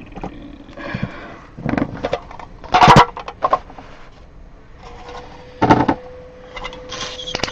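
Trading cards and plastic card holders being handled: rustling and small clicks, with a loud knock or snap about three seconds in and another just before six seconds. A faint steady hum comes in about five seconds in.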